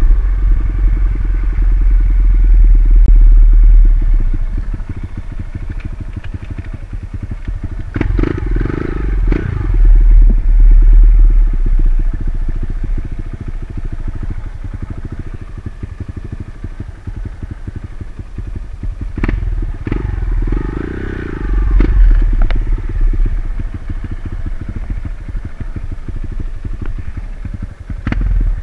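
Single-cylinder dirt bike engine running on a trail, its revs rising and falling in several throttle surges, with a few sharp knocks and clatters from the bike over rough ground.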